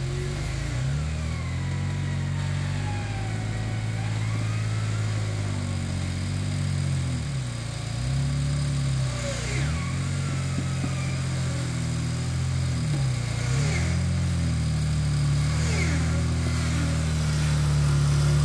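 Jeep Wrangler engine running under load on a steep off-road climb. Its pitch dips and picks up again several times in the middle as the throttle is worked.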